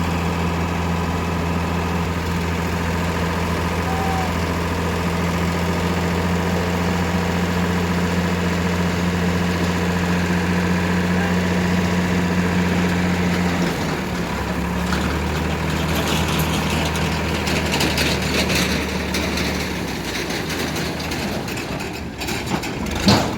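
Tractor diesel engine running steadily at idle. About two-thirds of the way through its pitch drops and a rushing noise joins in; near the end it fades, with one sharp knock.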